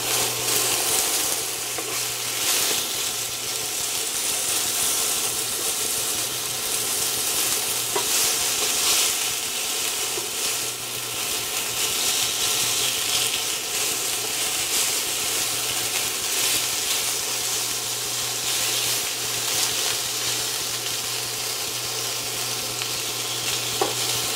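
Small pieces of chicken breast sizzling steadily in olive oil in a skillet, turned now and then with a spatula, with a couple of light taps of the spatula on the pan. A steady low hum runs underneath.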